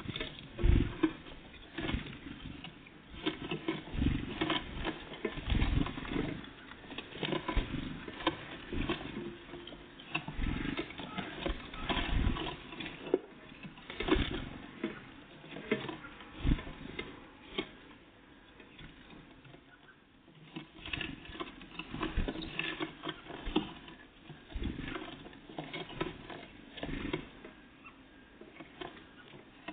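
Great tits and blue tits at a seed feeder, pecking and hammering at seeds and hopping about on it: a run of irregular quick taps and clicks with heavier knocks now and then. The feeding quiets for a moment past the middle, then picks up again.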